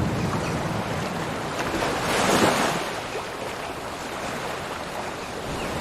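Sea waves breaking and washing on the shore, one wave swelling up and falling away about two seconds in.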